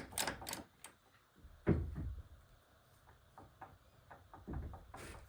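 A few scattered metal knocks and clinks from transmission parts being handled during reassembly, the loudest about a third of the way in and a small cluster near the end.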